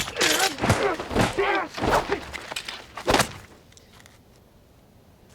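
A person's voice in several short utterances, then a single sharp hit about three seconds in.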